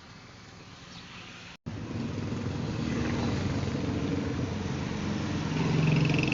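A vehicle engine running with a low, steady drone. It starts abruptly after a short break in the audio about one and a half seconds in, and swells louder near the end.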